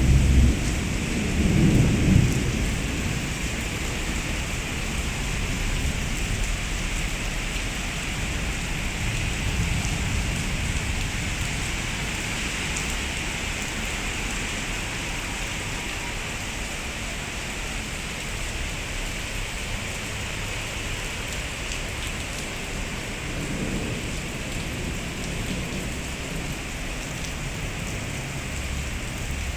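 Heavy rain falling steadily, with low rolls of thunder rumbling in the first couple of seconds and again about three-quarters of the way through.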